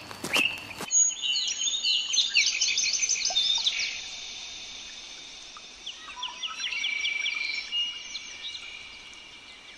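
Footsteps for about the first second, then birds chirping and singing in quick repeated trills, fading toward the end.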